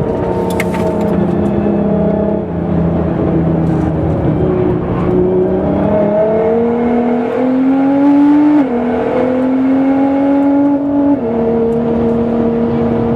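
Nissan GT-R R35's twin-turbo V6, tuned to about 700 hp, pulling hard through the gears: the engine note rises steadily, then drops sharply at a quick upshift about two-thirds of the way in and again at another upshift near the end.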